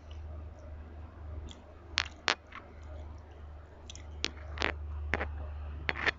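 Close-up mouth sounds of eating a rice meal: chewing with sharp wet smacks and clicks, about seven in all, bunched in the second half, over a steady low hum.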